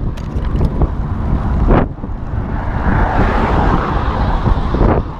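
Wind buffeting the microphone of a bike rider heading into a headwind: a loud, gusty rumble. A broader hiss joins it about halfway through.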